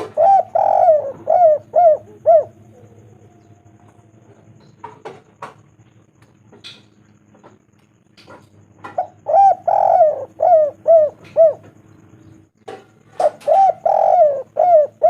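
Spotted dove (tekukur) cooing: three phrases of its rolling, repeated coo notes, one at the start, one about nine seconds in, and one beginning near the end, with pauses between.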